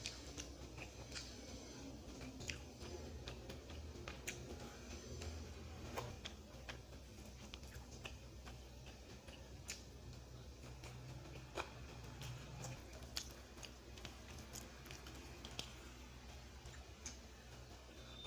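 A person eating a meal of rice and vegetables: soft chewing and mouth sounds with scattered small clicks, over a low steady hum.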